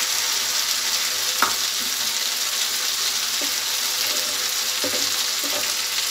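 Brinjal fry sizzling steadily in a nonstick pan while it is stirred with a wooden spatula. A sharp knock comes about a second and a half in, and a few soft scrapes and knocks follow later.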